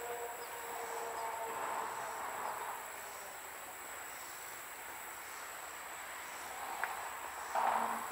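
A locomotive's chime horn chord dies away over the first couple of seconds as the geometry train moves off. Then the train rolls quietly on the rails, with a steady high insect buzz over it and a short louder burst of noise near the end.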